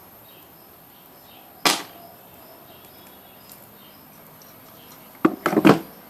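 A single sharp knock, then a quick run of four or five knocks and clatter near the end.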